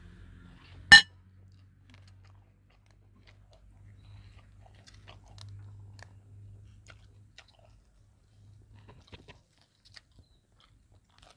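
A person chewing crunchy fried mouse close to the microphone, with scattered small crunches and clicks. One sharp, loud snap about a second in.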